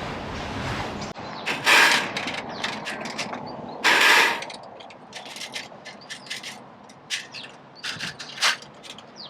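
Gear being handled and set up: a string of sharp clicks and rattles, with two louder scraping rushes about two and four seconds in.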